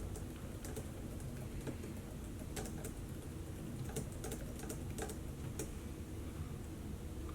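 Typing on a laptop keyboard: irregular runs of key clicks, busiest in the first few seconds and thinning out near the end, over a steady low background hum.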